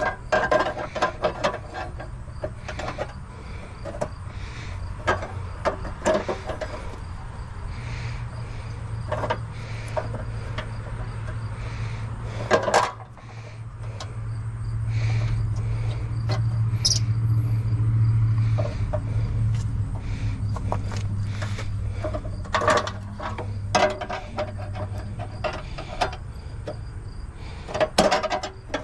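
Scattered metallic clinks and knocks of hand tools at work on a car's front end during radiator removal, over a steady low hum that swells for several seconds in the middle.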